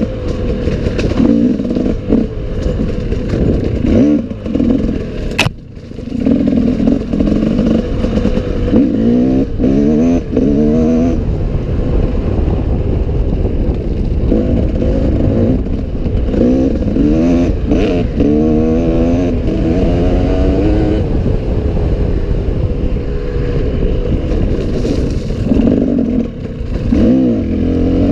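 Enduro dirt bike engine revving up and down again and again under riding, with clatter and a single sharp click about five seconds in.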